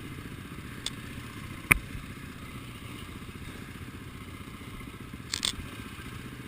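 Motorcycle engine running steadily at a low idle, with a sharp click about two seconds in and a brief clatter near the end.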